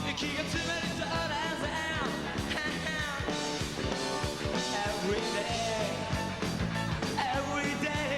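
Rock and roll band playing live: drums keeping a steady beat under guitars, with a voice singing.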